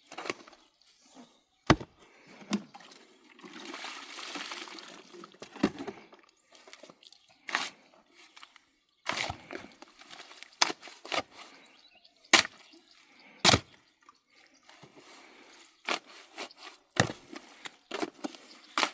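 A series of sharp, irregularly spaced knocks, about a dozen in all, with a short rushing noise between about three and five seconds in.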